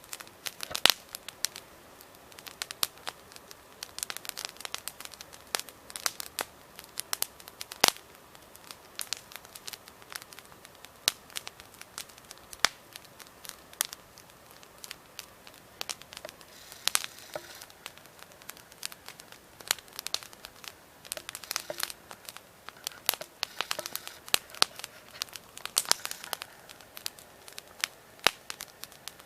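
Wood campfire burning, crackling with irregular sharp pops, some loud, coming in denser clusters now and then.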